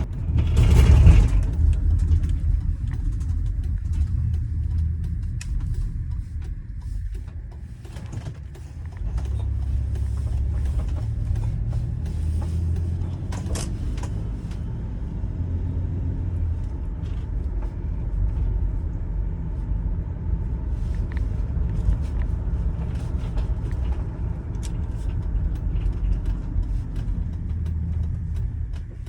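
2004 Chevrolet Venture minivan with its 3400 V6 under way: a steady low rumble of engine and road noise. It swells loudly about a second in and eases for a couple of seconds in the middle before settling back to a steady run.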